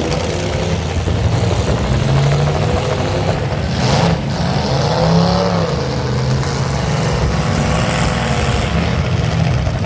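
Demolition derby cars' engines running and revving in the arena, with a sharp metal impact about four seconds in, followed by one engine revving up and back down.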